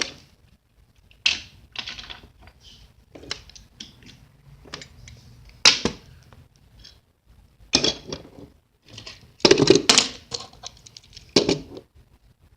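Small toy train engines and their parts clicking and clacking as they are handled and pushed, with a few sharper knocks.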